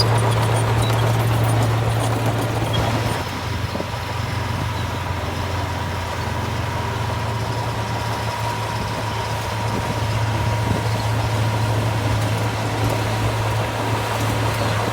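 Heavy diesel engine of earthmoving machinery running steadily with a deep drone and a thin steady whine above it, easing off a little a few seconds in and picking up again later.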